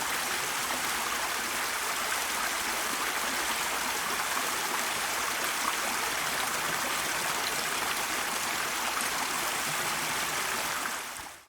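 Steady rushing of a flowing stream, which fades out quickly near the end.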